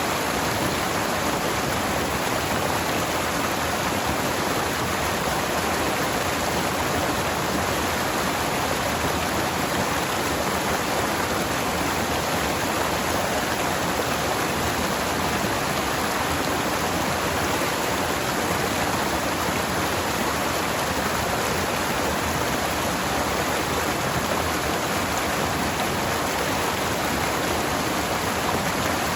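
Forest stream water flowing with a steady, even rush.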